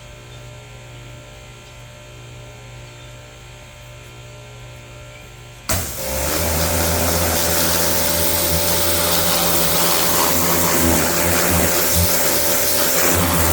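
A low, steady hum, then about six seconds in a pressure washer starts with a sudden jolt and runs loud and steady: its motor drone under the hiss of the water jet.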